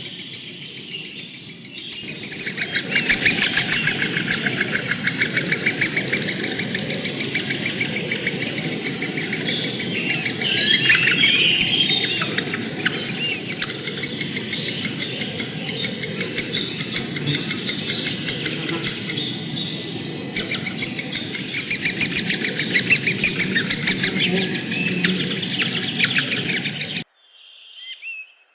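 Many birds chirping and chattering over a fast, steady pulsing trill. It cuts off abruptly about a second and a half before the end, and a few short whistled notes follow.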